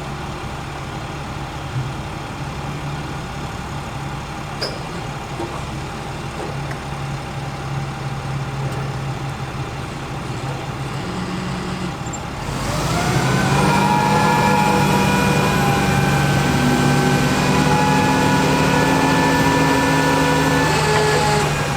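International DT466 diesel engine running steadily at idle. About twelve seconds in it speeds up and runs louder at a steady higher speed, with a whine on top.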